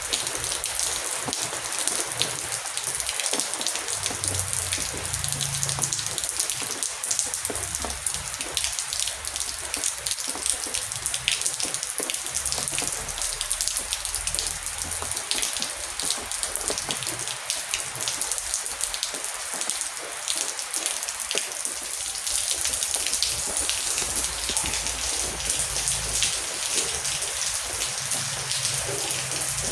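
Heavy rain falling steadily, a dense hiss full of sharp individual drop hits, with a faint low rumble coming and going underneath.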